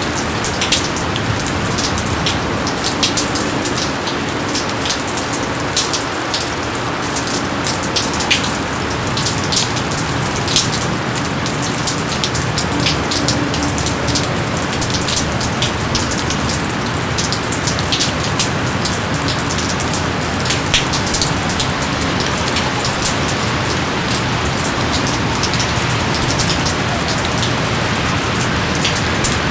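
Steady rain in a jungle, with many close drops ticking sharply over the constant rush of the downpour.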